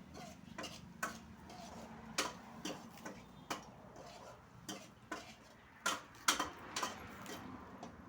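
A series of irregular sharp taps or clicks, about fifteen in all, unevenly spaced, with the loudest few clustered about six seconds in.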